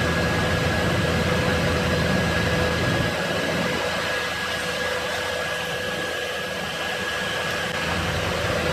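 Workshop machinery running steadily: a constant motor whine over broad noise, with the low rumble easing about three seconds in.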